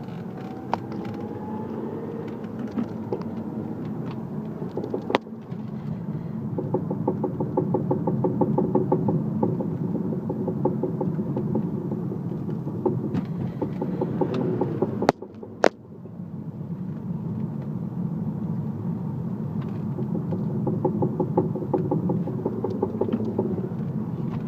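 Audi A3 being driven, engine and road noise with a rapid, even knocking running through it: the knock whose cause the owner is trying to trace. A sharp click and a brief dip in the sound come about halfway through.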